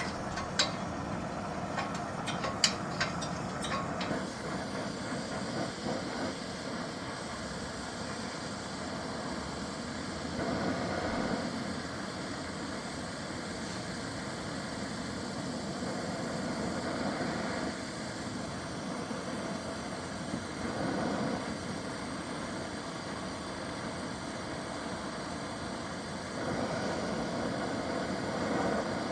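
Steady hiss and rush of a gas torch flame heating rusted exhaust nuts, swelling louder a few times; a few sharp metal clinks of tools in the first few seconds.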